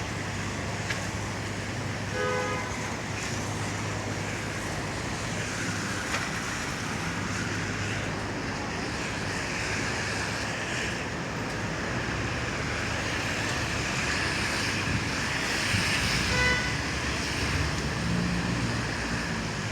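Street traffic on a rain-wet road: a steady wash of tyre hiss and engines. Short tonal sounds come about two seconds in and again around sixteen seconds.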